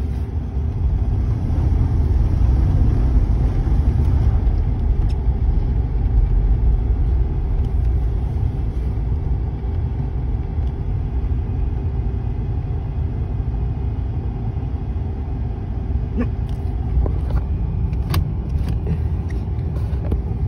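Cadillac's engine running steadily at idle with a low rumble, left to warm up. A steady hum joins in about eight seconds in, and there are a few faint clicks near the end.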